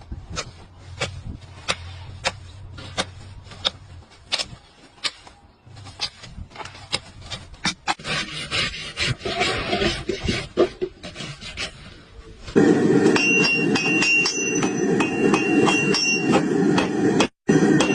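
Repeated sharp knocks like hammer blows, one or two a second, with scraping between them. About twelve seconds in, a much louder steady rushing noise cuts in abruptly, and the knocks carry on over it.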